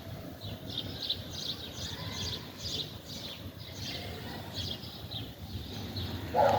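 Small birds chirping: many short, high calls in quick succession, over a low steady rumble.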